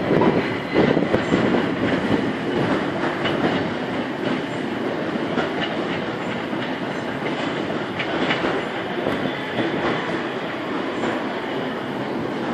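Train wheels running on the track with a clickety-clack over the rail joints. It is loudest in the first second or two, then steady.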